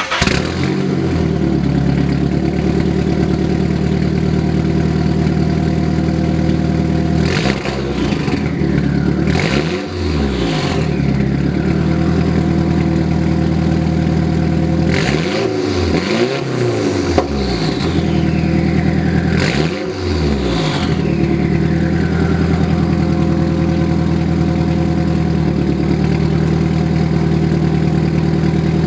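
Nissan S13's SR20DET four-cylinder engine idling through a freshly made straight blast pipe with the muffler cut off. It is revved in short blips in three groups, about a quarter, half and two-thirds of the way through, and settles back to idle each time.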